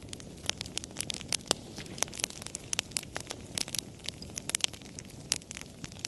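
Wood fire crackling: irregular sharp pops and snaps, several a second, over a soft steady hiss and rumble of the flames.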